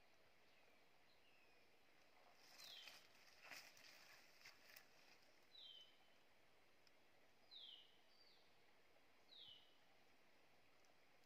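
Faint short whistled bird calls, about five, each falling in pitch, scattered through the clip. About two to five seconds in, dry leaf litter and brush rustle as someone shifts position on the forest floor.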